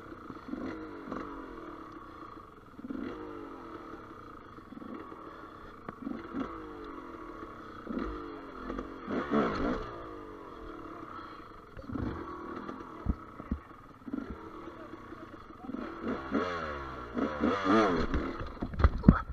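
Gas Gas EC200 two-stroke enduro motorcycle engine revved in repeated short bursts, its pitch rising each time, with a few sharp knocks near the end.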